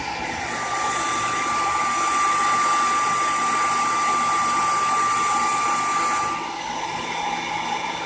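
Hand-held hair dryer running steadily with a whine and a rush of air, heating a nail wrap to soften it. It gets louder about half a second in and drops back about six seconds in.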